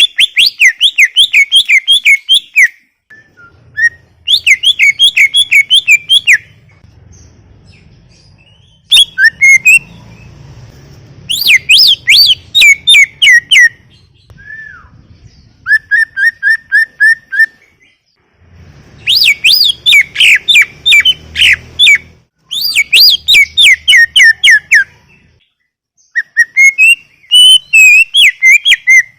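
Greater green leafbird (cucak ijo) in full, energetic song: loud phrases of fast, rapidly repeated high chirping notes, each phrase about two to three seconds long, with short pauses between them. Around the middle, one phrase is a steady run of evenly spaced, lower notes.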